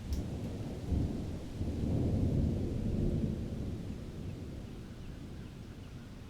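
Thunder rumbling: a deep roll that swells about a second in, peaks, then slowly dies away.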